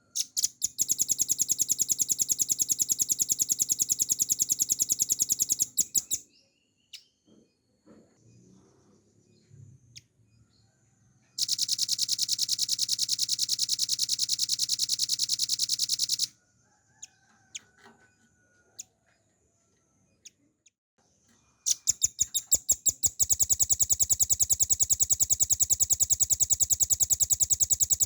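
Velvet-fronted nuthatch singing three long, very rapid trills of about five to six seconds each, with quiet pauses between them. The last trill begins as separate notes that quicken into the run.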